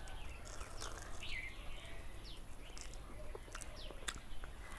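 Birds chirping in short, scattered calls, with a few small clicks of someone eating.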